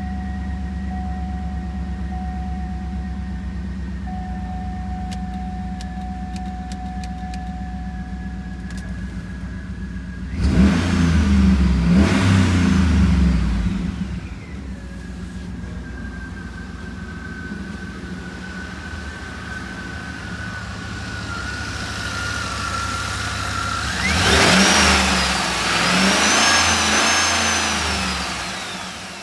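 2013 GMC Yukon's 6.2-litre L94 V8 idling, revved twice: once about ten seconds in for a few seconds, and again near the end. A thin high whine runs over the idle.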